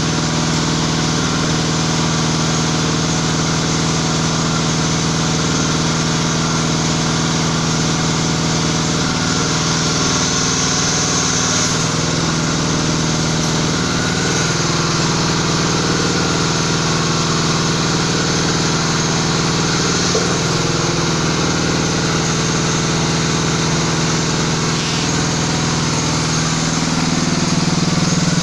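A 700-bar hydraulic pump unit running steadily with a constant hum, getting a little louder near the end.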